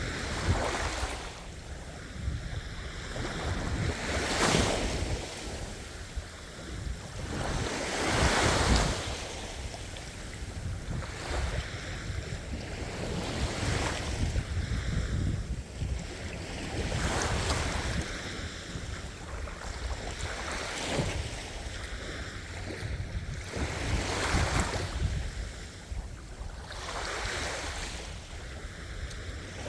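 Ocean waves breaking and washing on a shore, each wave swelling up every few seconds over a steady rush of surf, with low rumbling wind noise on the microphone.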